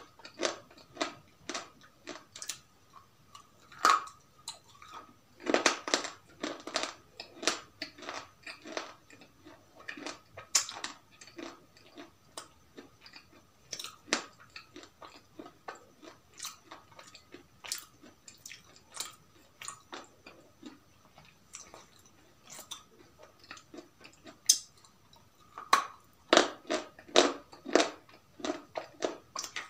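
Close-up, crunchy bites and chewing of a hard white stick, a quick run of sharp, irregular crunches that comes in denser clusters twice.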